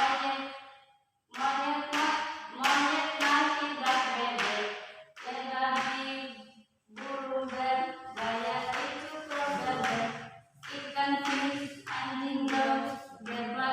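Voices singing a song to steady hand clapping, about one and a half claps a second.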